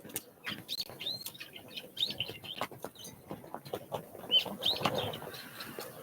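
Small songbirds giving short, high chirps, busiest about two-thirds of the way through, with scattered sharp taps among them.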